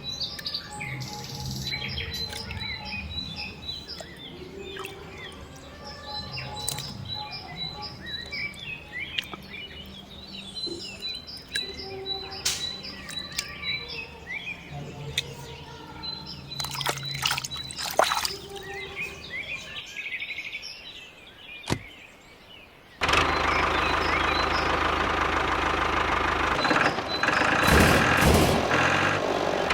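Birds chirping and calling, many short calls overlapping. About three-quarters of the way through, a small engine cuts in suddenly and runs steadily, louder than the birds.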